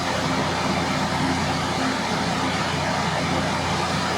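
Coal forge's blower running steadily, a constant rushing hum of air feeding the fire.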